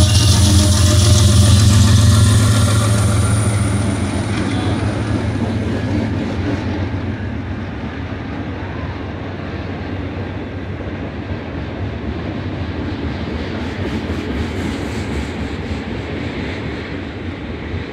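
BNSF diesel locomotive passing close by with a loud, steady engine drone that fades over the first three or four seconds. It gives way to the steady rolling rumble of intermodal container cars on the rails, with a few clicks from the wheels.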